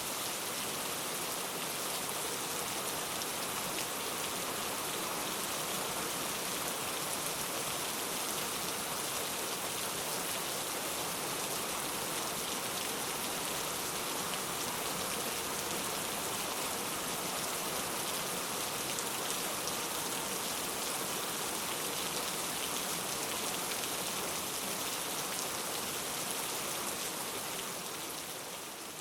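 Heavy rain falling, a steady hiss that fades away near the end.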